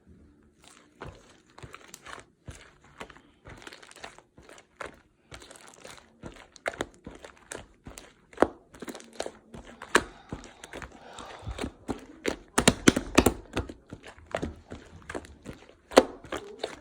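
Slime being squished and pressed by hand, giving a quick run of small clicks, crackles and pops, thickest about two-thirds of the way through.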